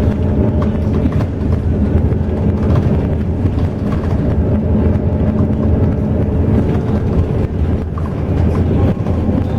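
Intercity bus under way, its engine droning steadily under continuous road noise.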